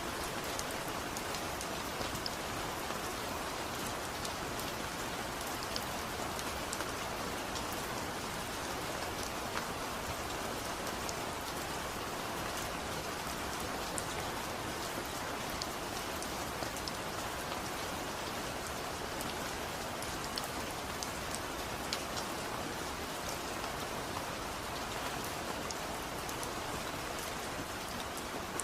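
Steady rain falling, a dense even hiss with scattered small drop taps.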